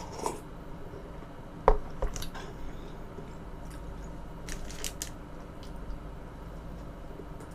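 Close-miked eating sounds: wet chewing and mouth clicks, with a sharp knock about a second and a half in, the loudest sound, and a quick run of clicks around the middle.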